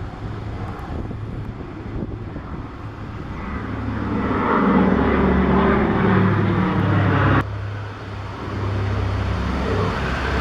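Consolidated PBY Catalina's two Pratt & Whitney R-1830 Twin Wasp radial engines droning in a fly-past. The drone grows louder as the flying boat comes closer, drops suddenly about seven seconds in, and then builds again near the end.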